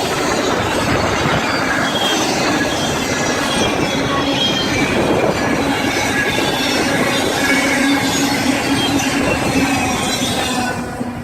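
A BNSF train rolling past at close range, its steel wheels squealing and screeching on the rails over a loud, steady rumble of cars. The sound starts fading near the end.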